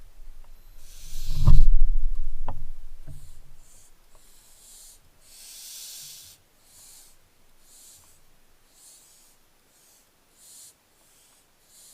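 Barn owlets hissing: repeated short, rasping hisses roughly once a second, the 'snoring' call that barn owl chicks make. About a second and a half in there is a loud low bump with a few sharp knocks, the loudest sound here.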